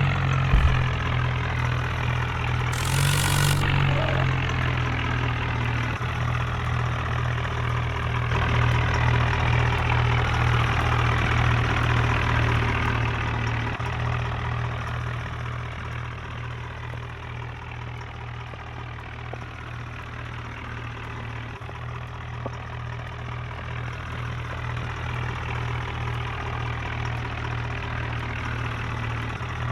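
Tractor diesel engine running steadily with a low, even drone, a little quieter through the middle. A brief hiss about three seconds in.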